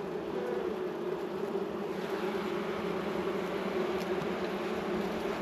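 Honey bees buzzing from an opened hive during a frame-by-frame inspection: a steady hum of many bees.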